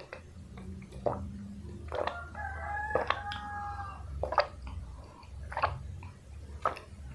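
Crisp clicks and crunches of close-up eating of crispy fried chicken, with a rooster crowing once in the background, a single held call of about two seconds starting a little over two seconds in.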